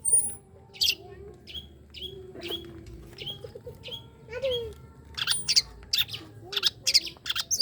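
An untrained long-tailed shrike (pentet) calling a run of short, sharp high chirps, the rapid 'tembakan' shots, a few a second and coming faster in the second half. Fainter lower whistles sound underneath.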